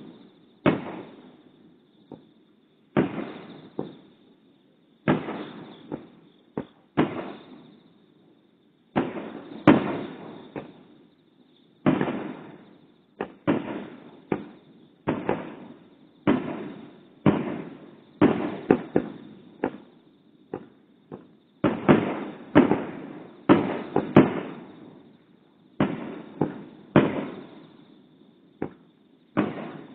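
Aerial firework shells bursting in an irregular series of booms, roughly one a second and sometimes bunched two or three together. Each boom trails off in a long echo off the surrounding mountains.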